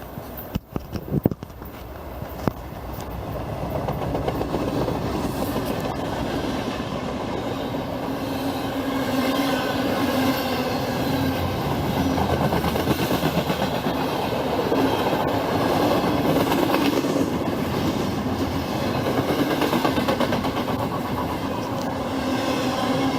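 Norfolk Southern freight train passing close by: the rumble and clatter of the train on the rails grows louder over the first few seconds, then runs on loud and steady.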